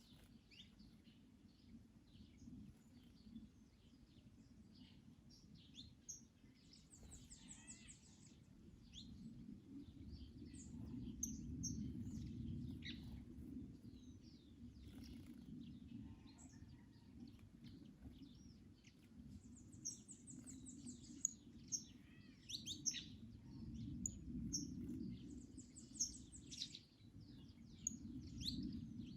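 Several small birds chirping and singing in a garden, with short high notes throughout and three bursts of fast, high trills. Under them is a low wind rumble that swells twice and fades.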